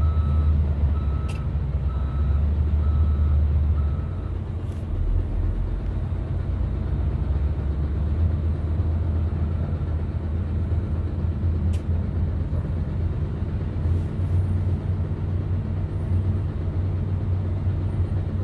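Heavy diesel engine of mining machinery running steadily with a deep drone. A reversing alarm beeps evenly, about once a second, until about four seconds in.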